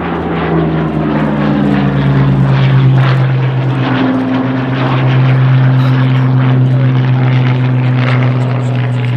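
Hawker Hurricane's Rolls-Royce Merlin V12 engine and propeller droning as the aircraft flies its display. The pitch sinks slightly over the first couple of seconds, then holds steady.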